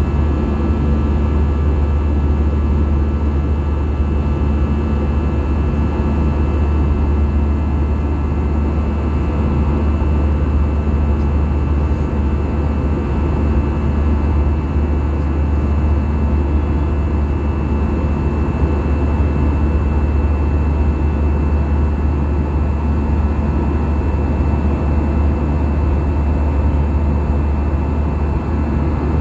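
Steady cabin drone of an Airbus A320-214 with its CFM56 turbofans running: a deep, even hum with several steady high whining tones above it, unchanging throughout.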